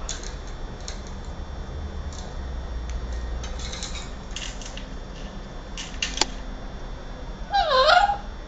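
Scattered light clicks and scratches, then near the end a short, loud parrot call that dips in pitch and rises again.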